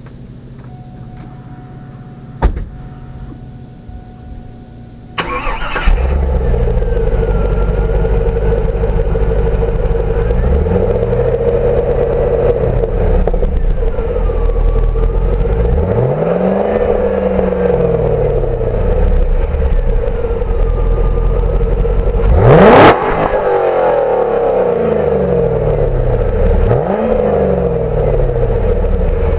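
2001 Camaro Z28's 5.7-litre LS1 V8 through its stock exhaust: after a few seconds of faint steady tones and a click, it starts suddenly about five seconds in and idles, with several throttle blips that rise and fall in pitch. The sharpest and loudest rev comes a little after the middle, dropping straight back to idle.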